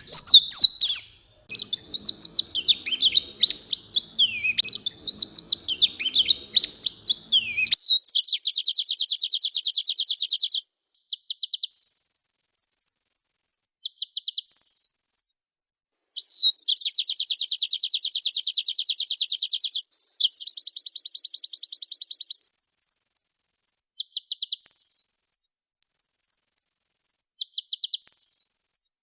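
White-eye (pleci) singing: for about the first eight seconds a fast, varied, high warbling, then a run of long, very even rapid trills alternating with bursts of high, hissing buzz, with short pauses between phrases.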